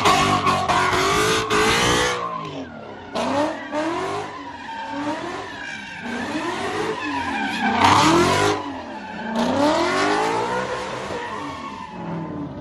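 Car engine revving hard, its pitch rising and falling again and again, with tires squealing and skidding, as a car spins donuts at a street sideshow.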